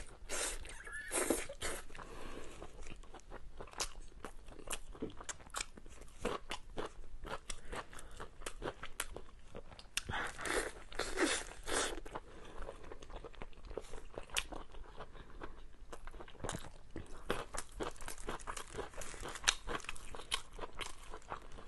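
A person biting and chewing braised pork belly right at the microphone: many small mouth clicks and chewing sounds at an uneven pace, louder at the start and again about ten seconds in.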